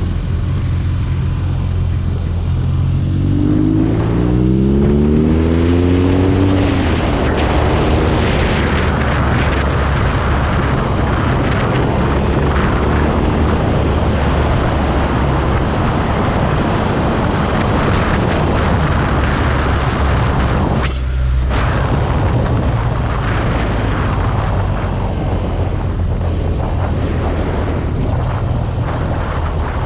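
BMW R nineT Urban G/S's air/oil-cooled boxer twin accelerating, its pitch rising through the revs about three to seven seconds in, then cruising at speed with heavy wind rushing over the microphone. There is a brief drop in the wind and engine noise about 21 seconds in.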